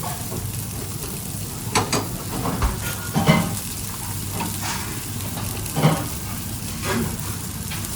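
Food frying in a pan with a steady sizzle, stirred with a utensil that knocks against the pan a few times. The loudest knocks come about three seconds in and just before six seconds.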